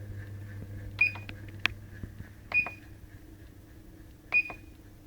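BH Fitness DK City treadmill console beeping three times, a short high beep with each button press as the incline is stepped. A few button clicks fall between the beeps, over the steady low hum of the running treadmill.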